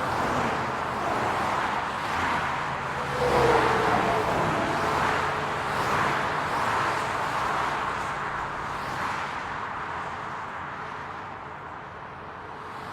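City road traffic: cars passing one after another, their tyre and engine noise swelling and fading. The loudest pass comes about three and a half seconds in, with a brief, slightly falling tone.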